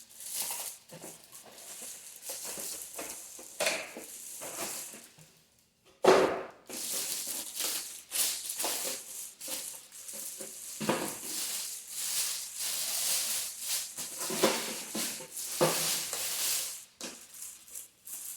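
Packaging being handled: irregular rustling and crinkling of plastic wrap and cardboard, with scattered knocks, a short lull about five seconds in, then a sharp knock.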